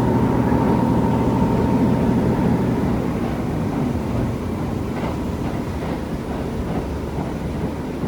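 KiHa 75 diesel railcar heard from inside the car: the diesel engine's steady hum drops away about three seconds in as the power is shut off, leaving the train coasting, with wheels clicking over rail joints in the second half.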